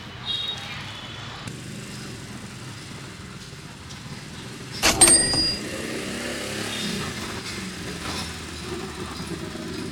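Street background of motorbike traffic running steadily. About five seconds in, a sharp metallic clank rings briefly.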